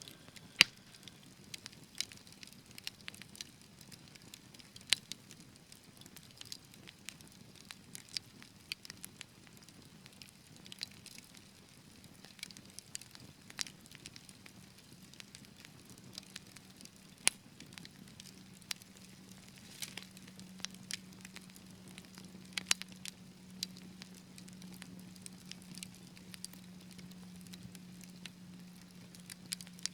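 Wood fire crackling in a fireplace: irregular sharp pops and snaps, a few much louder than the rest, over a faint steady low hum that grows a little stronger about two-thirds of the way in.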